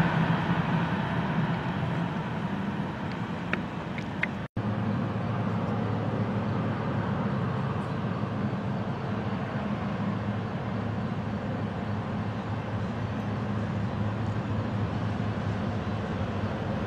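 Diesel freight train running by with a steady low rumble of locomotive engines and rolling cars, broken by a momentary dropout about four and a half seconds in.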